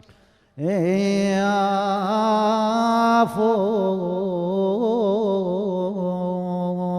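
A man chanting a Shia lament for Husayn in Arabic. He holds one long drawn-out note with wavering ornaments, starting about half a second in and breaking briefly about three seconds in.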